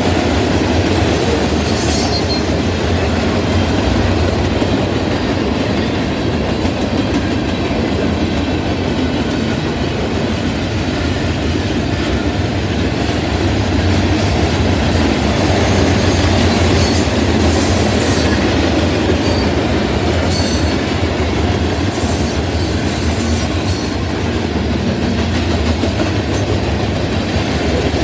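Cars of a mixed freight train rolling past at steady speed: a loud, continuous rumble of steel wheels on rail with rhythmic clicking over the rail joints. Brief high wheel squeals come through a few times, about a second in, past the middle, and near the end.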